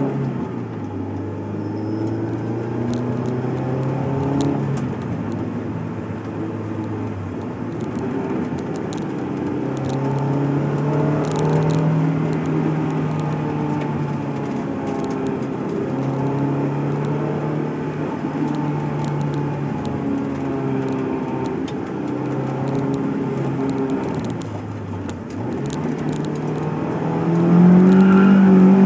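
Honda S2000's inline-four engine heard from inside the cabin while driving, its note rising and falling in pitch with road speed. Near the end it revs louder and higher as the car accelerates hard.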